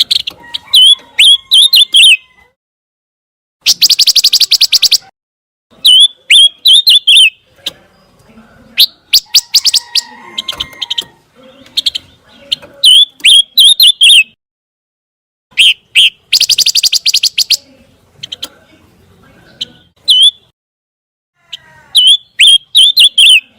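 Song of the bird that Indonesian bird keepers call pancawarna: loud phrases of sharp, upswept chirps with short gaps between them. The phrases are broken twice by a rapid, dense trill, about four seconds in and again about sixteen seconds in.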